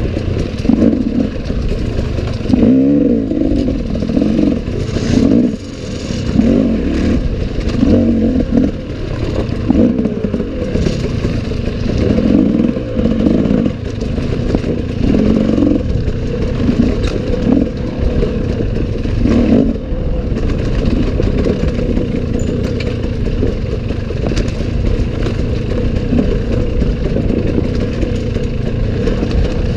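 Off-road motorcycle engine revving up and falling back again and again, every second or two, then running more evenly for the last third, with clatter and knocks from the bike over rough ground.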